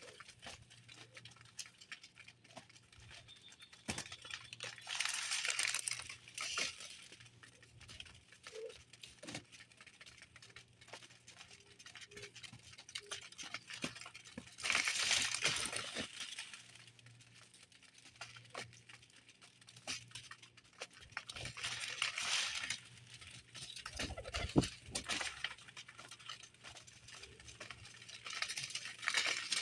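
Small birds at a feeder: scattered light pecking taps and rustling, with a few louder flurries of a second or two.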